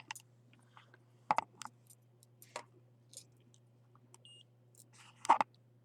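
Scattered clicks and handling taps, two louder ones about a second in and near the end, with one brief faint electronic beep a little past four seconds, over a steady low hum.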